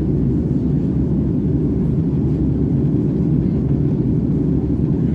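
Airbus A330 airliner in flight: a steady, loud low rumble of engine and airflow noise, as heard inside the cabin.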